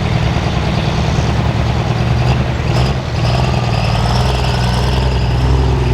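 Turbocharged diesel pickup truck engine running loud and steady.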